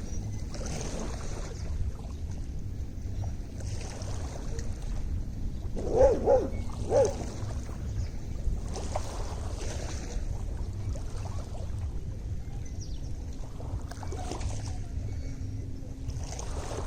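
Small lake waves lapping at the shore, a soft wash coming every two or three seconds over a steady wind rumble on the microphone. About six seconds in there are three short, loud pitched calls.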